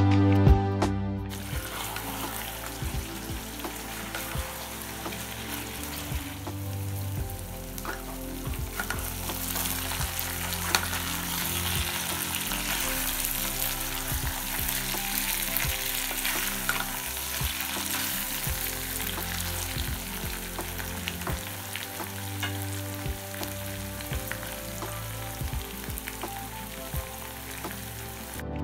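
Mutton and potato curry sizzling in a hot aluminium kadai, starting about a second in. It is stirred and scraped with a wooden spatula, giving scattered scrapes over the steady frying hiss.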